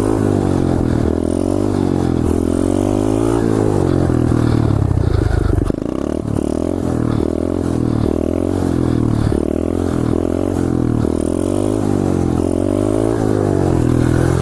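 SSR 125cc pit bike's single-cylinder four-stroke engine being ridden hard, revving up and down over and over. Its pitch rises and falls about once a second in the second half, with a brief drop about six seconds in.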